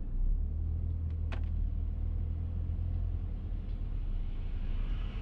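Steady low rumble of a car driving, heard inside the cabin, with a brief click about a second in.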